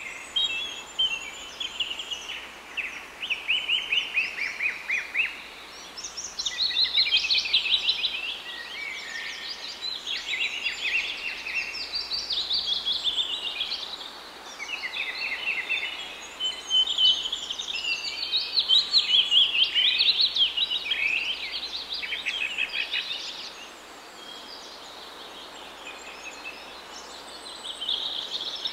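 Birdsong: a continuous stream of quick, high trills and chirps, overlapping as if from more than one bird, growing quieter near the end.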